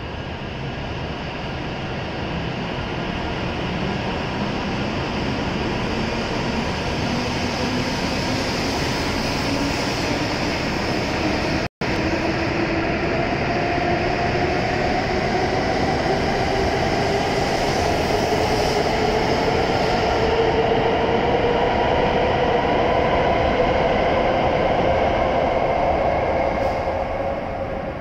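E7 series Shinkansen train pulling out and accelerating: the motor whine rises slowly in pitch over the rumble of the cars, and the sound falls away near the end. The sound cuts out for an instant about twelve seconds in.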